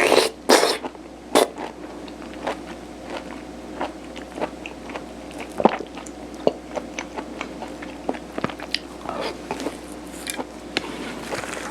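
Close-miked chewing of soft mung-bean sirutteok (steamed rice cake): wet mouth clicks and smacks, with a few louder ones in the first second and a half and another about halfway through.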